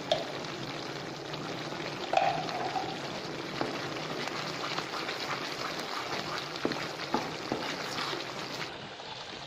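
Sago halwa sizzling and bubbling in ghee in a nonstick pan as a wooden spatula stirs it, with a few light taps of the spatula. The halwa is fully cooked, with a last spoonful of ghee just added.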